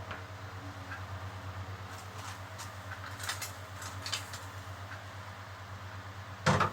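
Cookware being handled over a steady low hum: a few light clicks and taps, then one sharp knock near the end.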